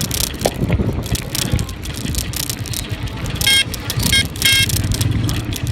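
A vehicle horn beeps three short times, about three and a half seconds in, over steady wind and road rumble from riding.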